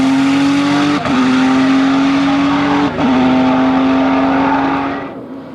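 Hill-climb race car engine accelerating hard at high revs, its note rising through each gear with two quick upshifts about two seconds apart, then fading as the car pulls away up the course.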